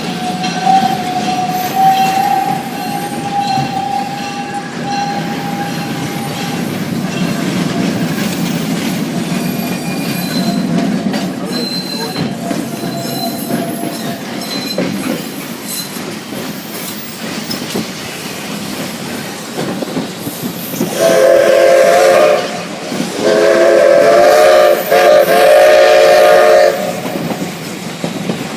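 Steam locomotive No. 6 working along the track, then sounding its chime whistle twice near the end: a short blast followed by a longer one.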